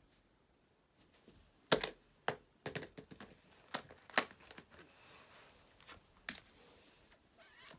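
Irregular sharp clicks and taps of plastic fidget toys being handled.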